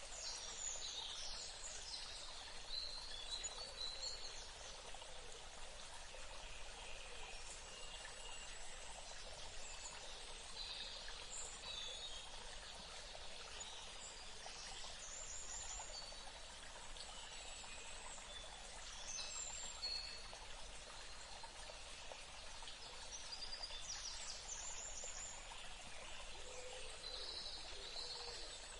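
Water running steadily, with a stream's trickle, while small birds chirp and call on and off over it, several short high calls scattered through.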